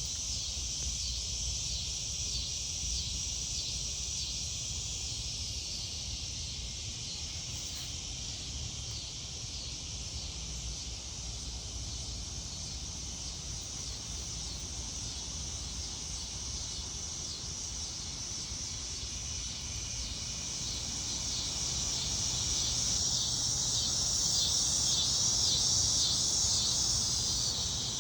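Steady outdoor chorus of summer insects, a high shrill chirring that swells louder over the last several seconds, over a low rumble.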